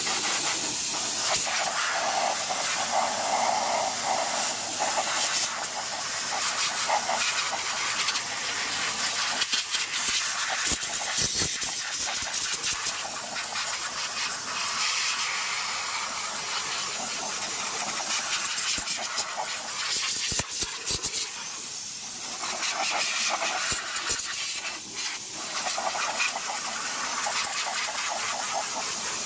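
Compressed-air blow gun hissing steadily as it blows water off a freshly washed car engine bay and out of its wiring connectors to dry it, with a few brief clicks.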